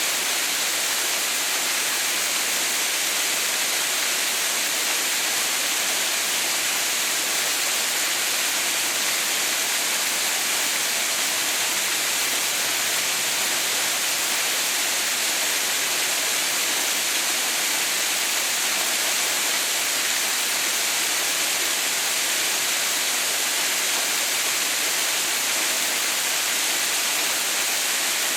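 Waterfall running: a steady, unbroken rush of falling water. It is a constant hiss, strongest in the high range.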